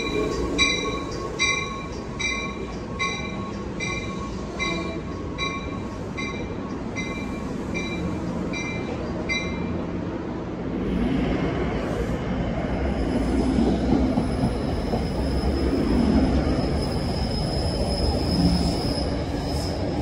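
NJ Transit commuter coaches' door warning chime beeping repeatedly, about every three-quarters of a second, then stopping about nine seconds in. The electric push-pull train then starts away from the platform with a growing rumble of wheels on rail and a high steady whine.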